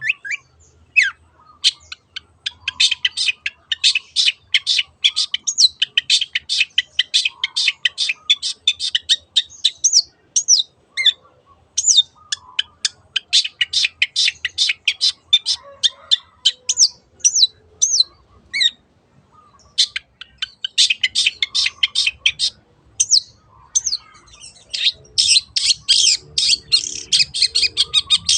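Long-tailed shrike (cendet) singing in rapid runs of short, high, chattering notes, in long stretches broken by a few brief pauses.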